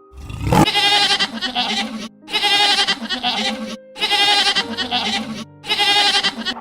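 An animal call with a wavering pitch, the same short clip played four times with brief breaks between, over steady background music. A swoosh comes just before the first call.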